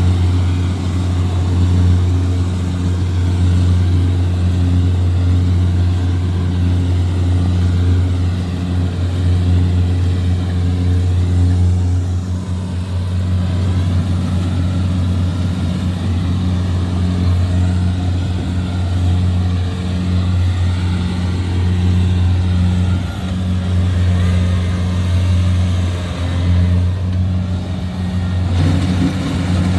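Kubota DC-70G Plus combine harvester's diesel engine running steadily under load while cutting rice, a continuous low drone with no change in speed.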